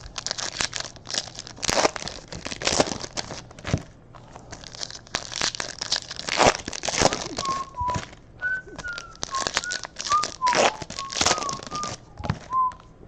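Crinkling and tearing of 2018-19 Panini Hoops basketball card boxes and pack wrappers being opened. About halfway through, a person whistles a short wavering tune over the rustling.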